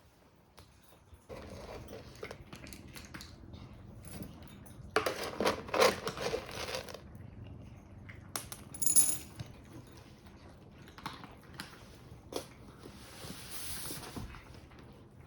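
Scattered small knocks and rustles of handling, with a brief metallic jingle about nine seconds in.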